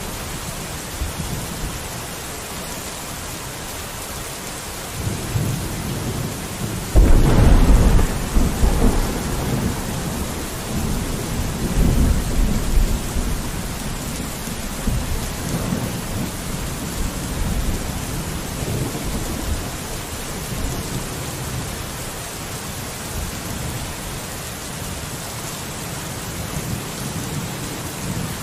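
Steady rain with a clap of thunder about a quarter of the way in that starts suddenly and rumbles on for several seconds, swelling once more before it dies back into the rain.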